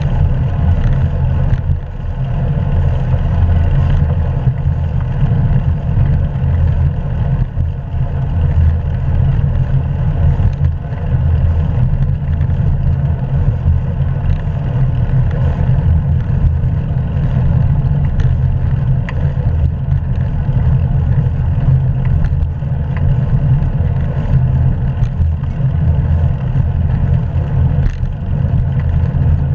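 Steady, loud low rumble of wind and road noise on a bicycle-mounted GoPro action camera during a ride.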